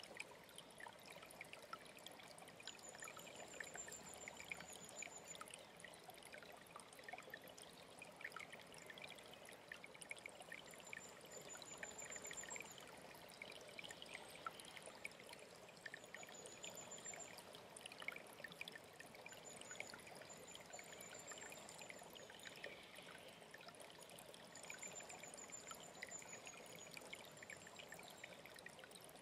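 Faint, steady trickle of a mountain stream, with water splashing over stones. A small bird's thin, high trill recurs every few seconds above the water.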